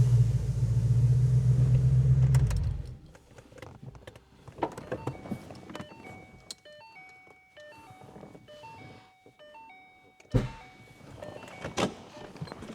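A car engine running with a loud, low rumble that cuts off abruptly about two and a half seconds in, followed by soft music of short melodic notes with a few sharp knocks.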